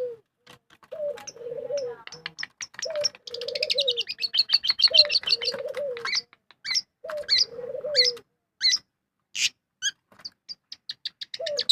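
Bird sounds: a quick series of high, sharp chirps and trills, thickest in the middle, over short low coos that repeat every second or two, like a dove cooing.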